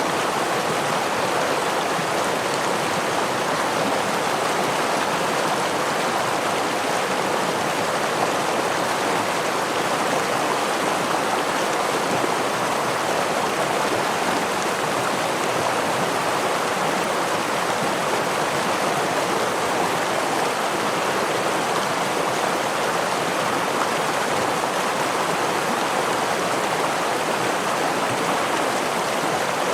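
A stream of water flowing steadily, an even, unbroken sound of running water.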